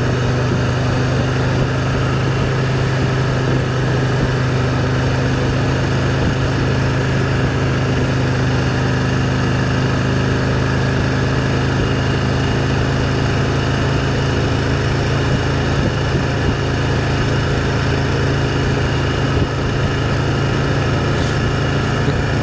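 Can-Am Spyder three-wheeled motorcycle engine running steadily at an even cruising speed, with wind and road noise. There are no revs or gear changes.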